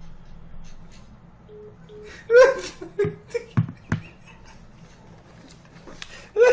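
A person laughing in several short, loud bursts, with two sharp knocks just after.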